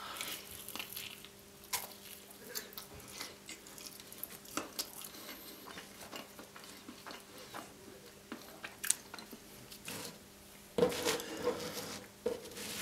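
Close-miked chewing of a thin-crust Nutella dessert pizza, with scattered crisp crunches from marshmallow toasted as crunchy as meringue. A faint steady hum runs underneath, and a louder stretch of noise comes near the end.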